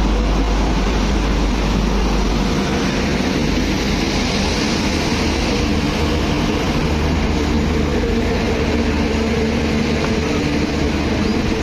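Express passenger train rolling into a station: a steady, loud rumble and rattle of the coaches passing, with a deep hum that drops away about two and a half seconds in.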